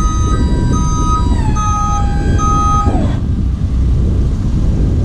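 Tipper body's hydraulic pump running with a steady whine that sinks in pitch about a second and a half in, then glides down and cuts off about three seconds in, under a warning beeper giving four short beeps that stop with the pump. A low engine idle runs underneath.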